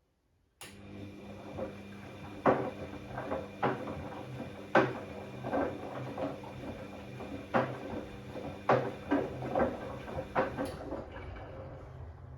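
Bosch Classixx 6 washing machine running in the start-and-sensing stage of its cycle: its motor starts suddenly with a steady hum and turns the drum, with irregular knocks and clicks from the tumbling drum, then stops shortly before the end.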